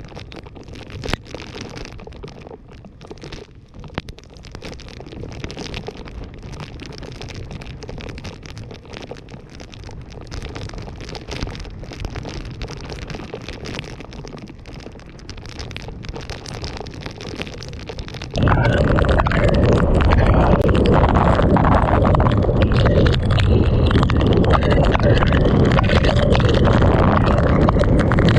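Typhoon wind and rain buffeting the microphone, with scattered sharp knocks. About two-thirds of the way through it cuts suddenly to a much louder, dense rush of wind and driving rain.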